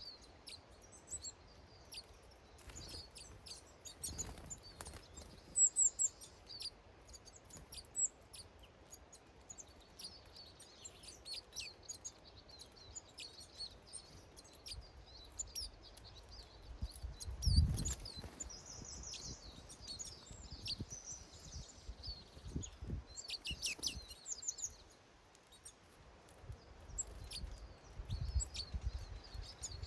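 Small garden songbirds calling, many short high chirps and twitters scattered throughout, with a brief low rumble about two-thirds of the way through.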